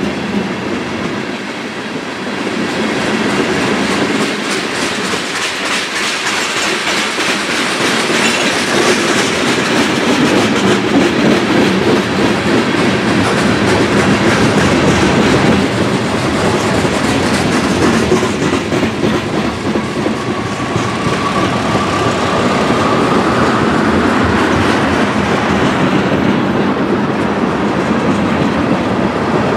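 Loaded freight tank cars rolling past at close range: a continuous rumble of steel wheels with rhythmic clickety-clack over the rail joints. A faint high squeal comes in for several seconds in the second half.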